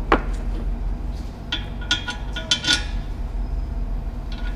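Metal objects clinking and knocking together several times, with a short metallic ring after the sharper hits, over a steady low hum.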